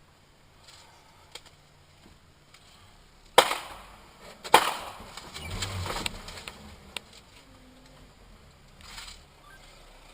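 Car collision: a sharp, loud impact about three seconds in, a second impact about a second later, then a couple of seconds of lower crunching noise and rumble as it dies away.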